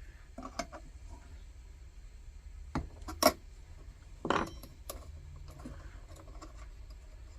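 Light metallic clinks and clicks of a half-inch wrench working on the generator fitting of a Coleman 222B lantern, as the generator is loosened for removal. Half a dozen separate sharp clicks, the loudest about three seconds in.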